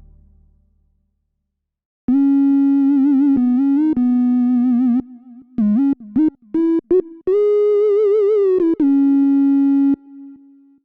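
Omnisphere software synthesizer playing a single-note lead melody with vibrato, sliding in pitch between notes. It comes in about two seconds in, after the previous sound dies away, and stops shortly before the end.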